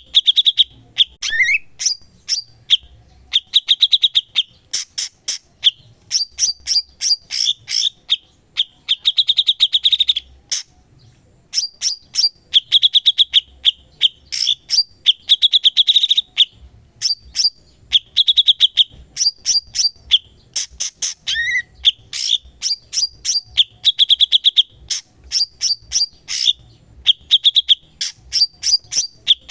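Cucak cungkok (a leafbird) singing continuously in full song: rapid phrases of sharp chirps and fast, buzzy trills, with a short pause about ten seconds in.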